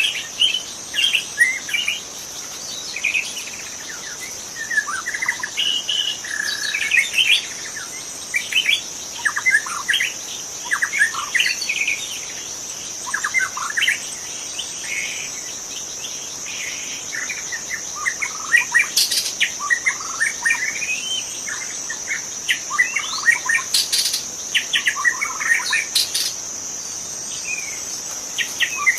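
White-rumped shama singing in the wild: bursts of rapid, varied whistled phrases with short pauses between them. A steady high-pitched insect drone runs underneath.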